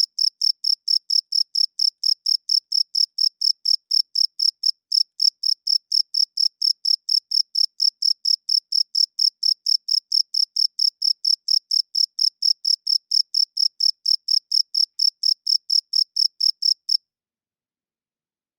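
Cricket chirping: a steady, even series of short high-pitched chirps, about four a second, which stops abruptly near the end.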